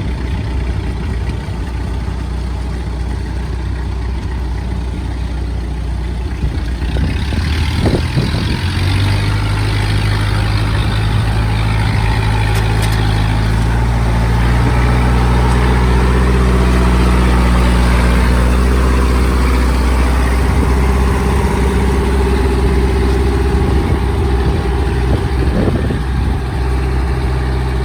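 Diesel tractor engine running under load as the tractor drives along a flooded track. The engine note and a wash of noise swell from about eight seconds in, are loudest around the middle, then ease slightly.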